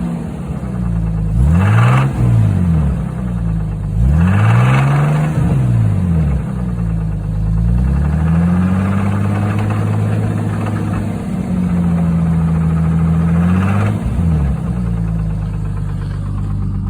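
A warmed-up 1989 Jeep Cherokee 4.0 inline-six engine revved up and back down several times, held higher for a few seconds in the middle, with a slight knock. The knock comes on once the engine is warm, while hot oil pressure sags to about 20 psi. The owner suspects rod bearings or lifters.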